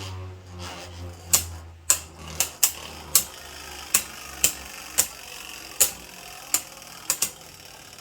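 Two Beyblade Burst spinning tops clashing in a plastic stadium: sharp clacks at irregular intervals, about one or two a second, as they strike each other and the stadium wall, over a low hum that fades about three seconds in.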